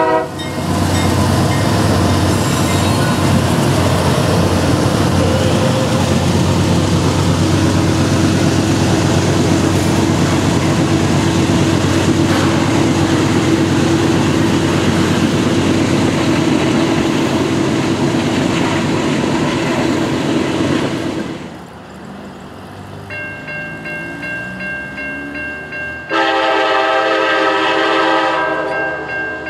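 A freight train's cars rolling past a grade crossing with a steady rumble and wheel clatter; the train clears about 21 seconds in. The crossing signal's bell keeps ringing in a steady beat. Near the end, an approaching locomotive's multi-chime air horn sounds loudly for about two seconds.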